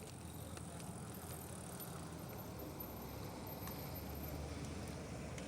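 Steady low rumble of wind and road noise while riding a bicycle, with a few faint ticks.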